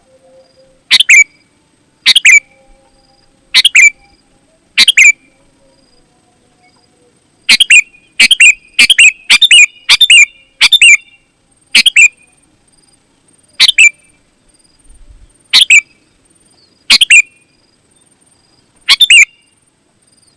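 Sooty-headed bulbul (kutilang) giving short, loud calls, about fifteen of them. They come at irregular spacing, with a quick run of six calls in the middle.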